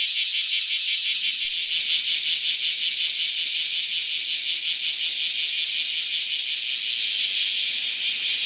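Cicada calling: a steady, high-pitched rasping buzz made of fast, even pulses.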